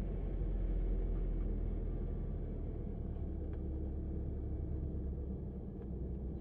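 Car engine idling, a steady low rumble heard from inside the parked car's cabin, with two faint clicks partway through.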